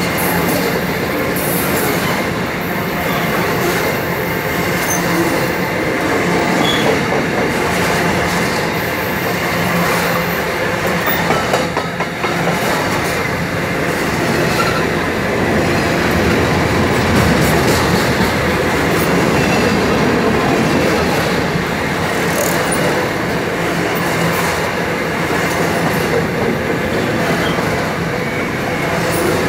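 Empty covered hopper wagons of a freight train rolling past close by: steady wheel-on-rail rumble and clatter with a faint steady ringing, and a few sharp clicks about eleven to twelve seconds in.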